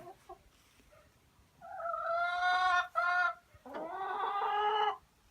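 Chickens calling: two drawn-out, pitched calls, the first starting about a second and a half in and the second, which begins with a short upward slide, about a second later.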